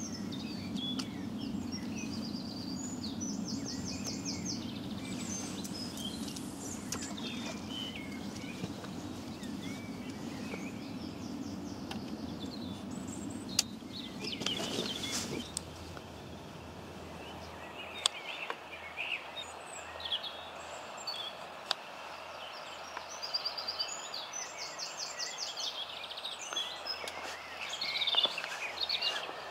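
Songbirds singing, with a rapid high trill heard twice, over a low steady rumble that stops about halfway through.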